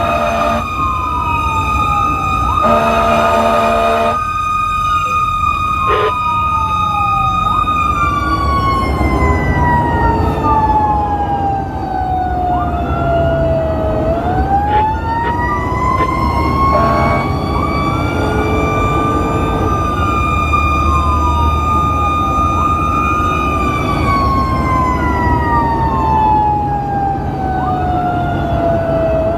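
Fire engine running with its sirens on while responding. One siren holds a high pitch, slowly winds down over several seconds, then winds back up, twice. Shorter sweeping wails overlap it over a low engine rumble, and a short horn blast sounds about three seconds in.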